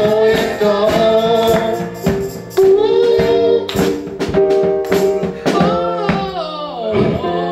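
A school music ensemble playing a pop song: voices singing a held, wavering melody over band accompaniment with a steady percussion beat.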